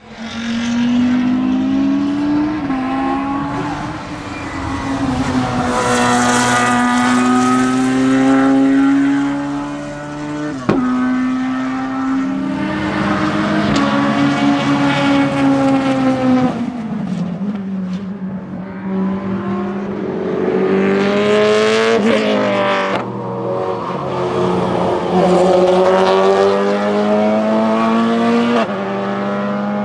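Group CN prototype race cars, Radical SR3 and Ligier JS51, passing at speed one after another, their high-revving engines rising and falling in pitch as each goes by and shifting gear. A sharp crack comes about eleven seconds in.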